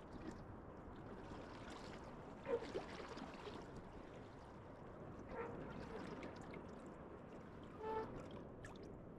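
Lake Superior waves washing and surging against a pier, a steady rushing wash that swells and eases. A few short, louder sounds sit on top, the loudest about two and a half seconds in.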